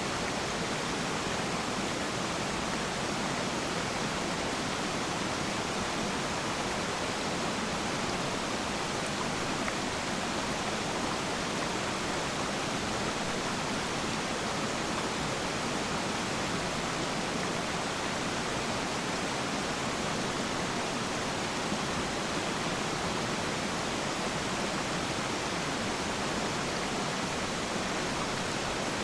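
Steady, unbroken rush of water at Peiran Falls.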